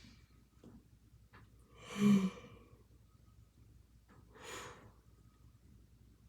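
A person breathing deeply: a loud, partly voiced sigh about two seconds in, then a softer breath a couple of seconds later, with a few faint mouth clicks before them.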